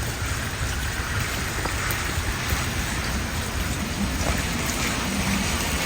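Steady rain falling, an even hiss of drops with a few faint ticks.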